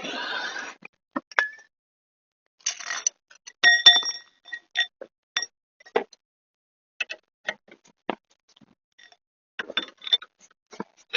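Metal tools clicking and clinking against metal parts: a scattered string of short, sharp clicks and taps, a few ringing briefly with a clear metallic tone. A steady noise cuts off within the first second.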